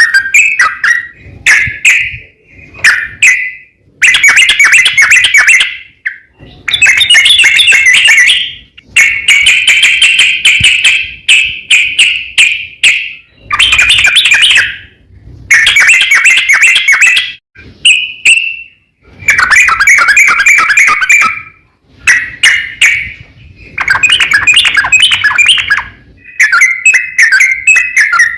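Yellow-vented bulbul singing rapid, bubbling chattering phrases. The phrases come in repeated bursts of one to three seconds each, with short pauses between them.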